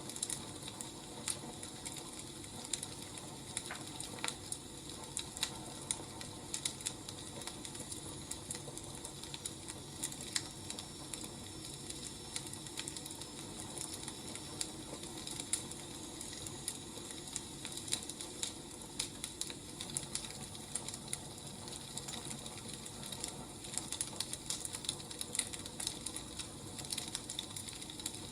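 Wood fire crackling: a steady low hiss with frequent irregular snaps and pops.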